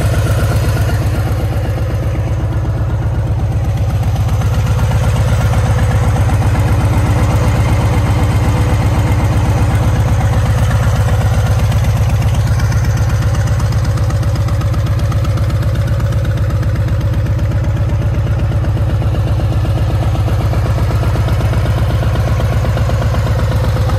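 2019 Harley-Davidson Fat Boy's Milwaukee-Eight 114 V-twin engine idling steadily through a Vance & Hines exhaust, with an even, fast pulsing beat.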